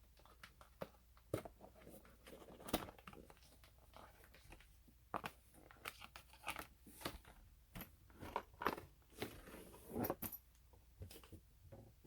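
Cardboard shipping box and its packaging being handled and opened: irregular rustling, crinkling and short knocks and taps.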